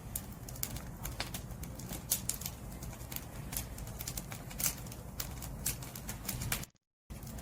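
Burning firewood crackling: irregular sharp pops and snaps over a steady low rumble of the flames. The sound cuts out to silence for a split second near the end.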